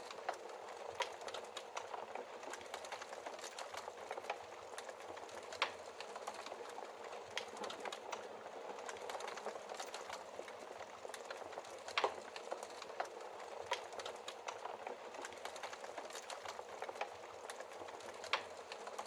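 Wood fire burning in a fireplace: a steady low hiss with irregular sharp crackles and pops, a few louder snaps scattered through, the loudest about two-thirds of the way in.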